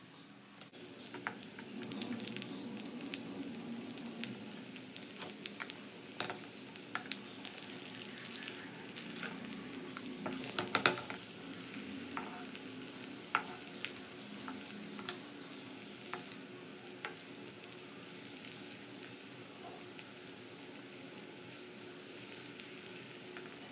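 Rice-flour flatbread frying in hot oil in a nonstick pan: steady sizzling with many small crackles and pops of spitting oil. A spatula scrapes and presses on the pan now and then, with a run of louder clicks about halfway through.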